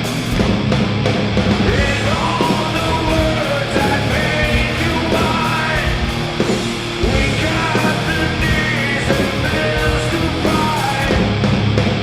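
Live heavy rock band playing loud distorted electric guitars, bass and drums, with a voice singing or shouting over them from about two seconds in.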